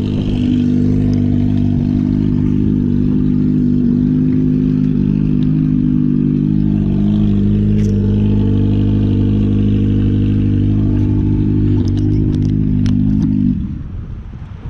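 Motorcycle engine running at a steady, unchanging speed, loud and close. It drops away suddenly about a second before the end.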